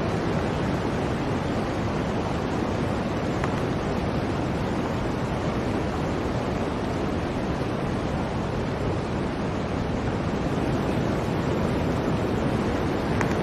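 Blizzard wind blowing steadily, a dense, even rush of noise without gusts or breaks.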